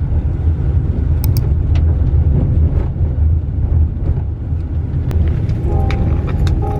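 Steady low rumble of a vehicle in motion, with a few light clicks. Music starts near the end.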